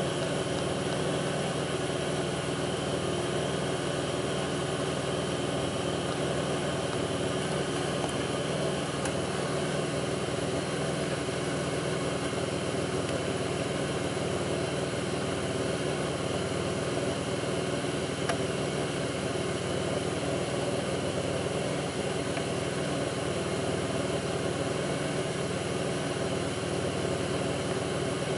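2002 Pontiac Grand Prix's 3800 V6 engine idling steadily. The idle is one the owner describes as rough, with faint intermittent thumping that pulls it down.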